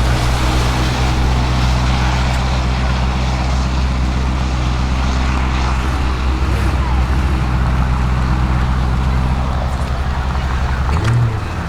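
ABT-tuned Audi RSQ8-R's twin-turbo V8 running steadily at idle, with a brief rise in revs about eleven seconds in.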